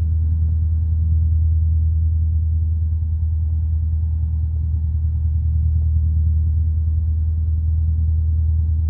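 Light aircraft's piston engine and propeller running at idle before takeoff: a steady, even low hum.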